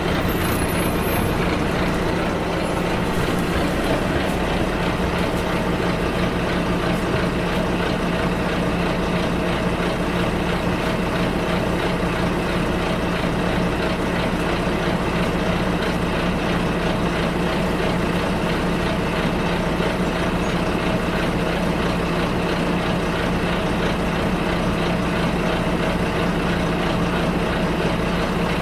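Bus interior ambience: the engine's steady hum and road rumble heard from inside the cabin as the bus drives.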